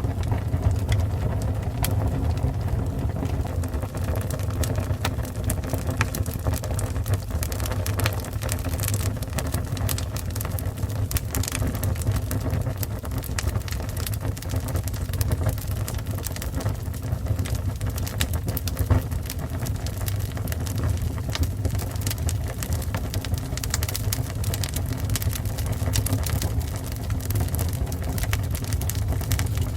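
Fire burning: a steady low rumble with frequent sharp crackles and pops throughout.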